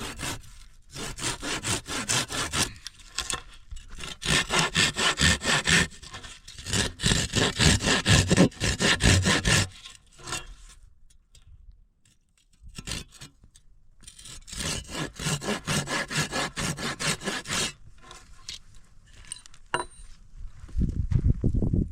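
Handsaw cutting wood in several bouts of quick, even back-and-forth strokes, with short pauses between the bouts.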